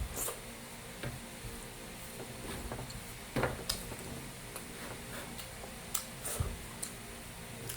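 Close-miked eating sounds: irregular soft clicks and wet smacks of chewing and of a utensil against a plate, a few every second, over a steady low hum.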